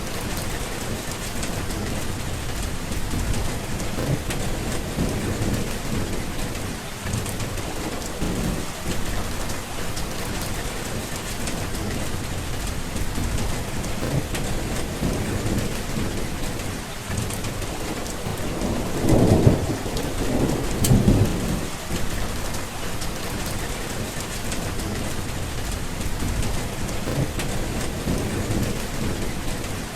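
Steady heavy rain with rolling thunder rumbling low underneath, swelling to a louder rumble about two thirds of the way through.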